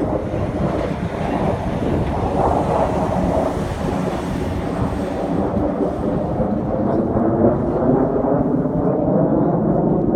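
Aircraft passing: a steady low rumbling engine roar, its higher hiss fading after about six seconds.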